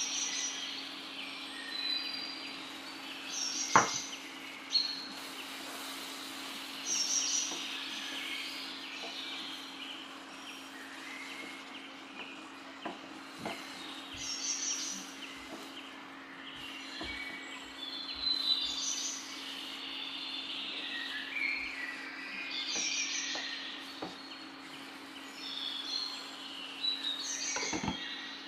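Birds chirping in short repeated phrases every few seconds over a steady low hum, with a sharp knock about four seconds in and a clink near the end as a glass lid is set on the pan.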